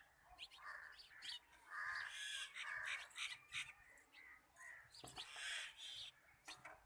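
Birds calling, fairly faint: a run of calls about two seconds in and another group near five and a half seconds.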